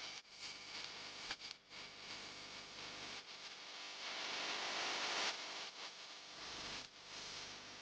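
A faint, steady hiss that swells louder about four to five seconds in, broken by a few brief dips and clicks.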